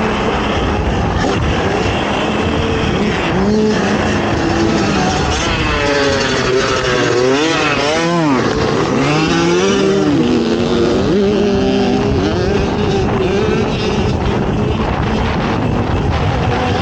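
Racing ATV engine running hard, its pitch rising and falling with the throttle. For a few seconds in the middle it revs up and down quickly, then settles back to a steadier drone.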